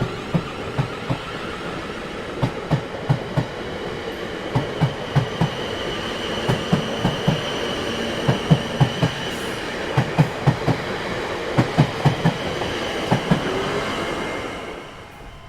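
Train rolling past, its wheels clacking over rail joints in regular groups of beats over a steady rumble, with a faint high squeal from the wheels. It fades out near the end.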